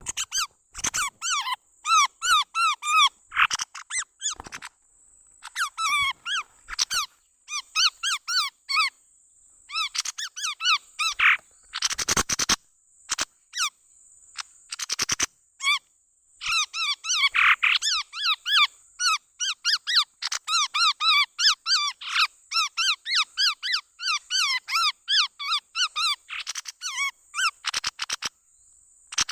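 Chestnut-rumped babbler calling in quick runs of short, clipped whistled notes, phrase after phrase with brief pauses, as used to lure the bird. A thin steady high whine runs under it, and there are a few sharp clicks partway through.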